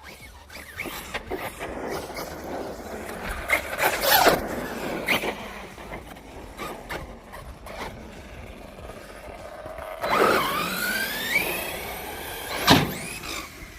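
Team Corally Kagama RC stunt truck's electric motor whining and revving, its pitch gliding up and down in the second half, with a rough rushing and clicking of the truck running over the skatepark concrete. A sharp hard knock, the loudest sound, comes near the end as the truck lands.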